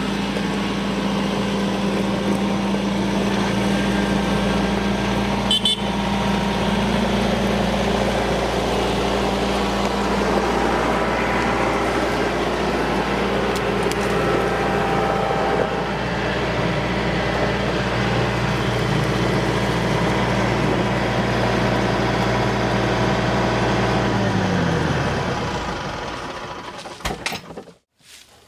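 Tractor engine running at a steady speed, then slowing with a falling pitch and shutting off near the end. There is a single short click about six seconds in.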